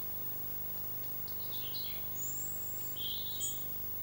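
Small birds chirping and whistling a few times, short high calls in the middle and near the end, over a steady low hum.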